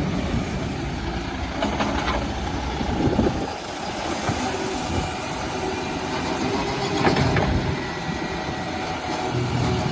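Garbage truck engine running under heavy wind buffeting on the microphone, with a few short knocks.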